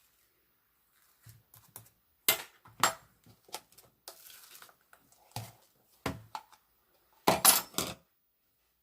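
Small hard objects being handled and set down: irregular clicks and taps, with a brief rustle midway and a quick cluster of louder taps near the end.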